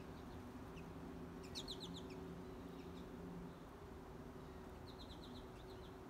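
Songbirds chirping: short, high calls with a quick run of notes about a second and a half in and another about five seconds in, over a faint steady low hum.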